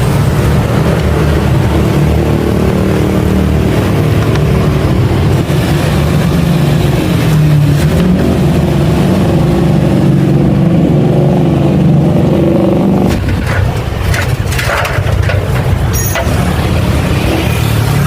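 Motorcycle engine running, its pitch shifting up and down; it drops away about thirteen seconds in, leaving a few clicks and knocks, and picks up again near the end.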